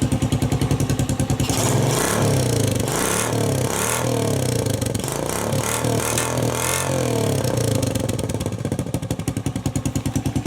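Honda CT110 postie bike's single-cylinder four-stroke engine running through a cut-down exhaust with a real pop to it. It idles with a quick even beat, is revved up and down several times from about a second and a half in, then settles back to idle near the end.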